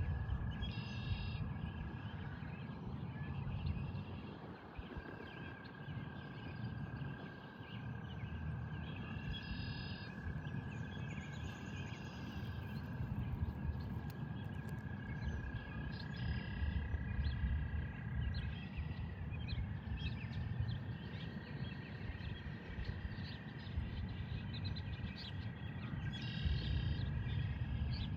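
Frogs calling at a pond: one long, steady high trill runs through nearly all of it. Short higher chirps come in a few times, over a constant low outdoor rumble.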